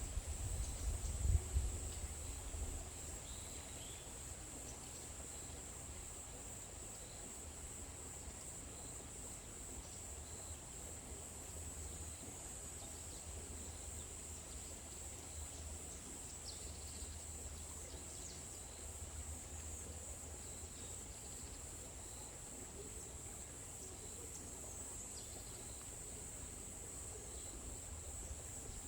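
Forest ambience dominated by a steady, high-pitched chorus of insects, with a few faint, brief bird chirps. A low wind rumble fades out in the first few seconds.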